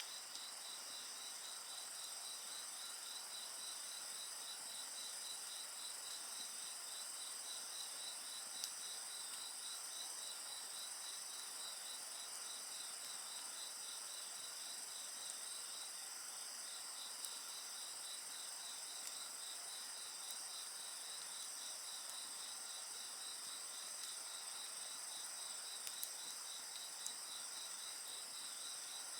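A steady chorus of crickets and other insects: several high-pitched songs overlap, one of them a fast pulsing trill. A few faint pops from a campfire are scattered through it.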